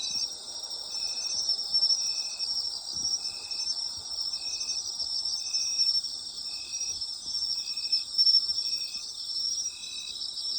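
Autumn night chorus of insects: a dense, steady high trilling, with one insect chirping at an even rhythm about once a second.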